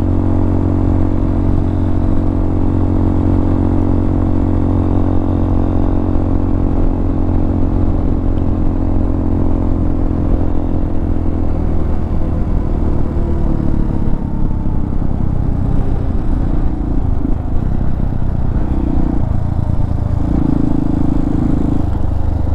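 Hawk 250 motorcycle's carbureted single-cylinder engine running steadily under way, with low wind rumble on the microphone. About halfway through, the engine note falls as the bike slows, and it runs lower and less evenly toward the end.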